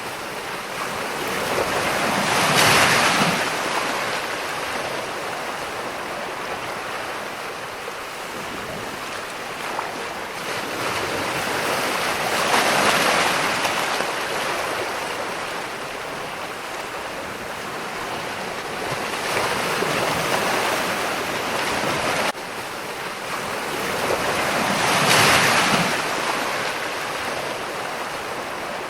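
Ocean waves breaking and washing in, a steady rush of surf that swells with each breaker about every six to ten seconds, the strongest crashes near the start and near the end.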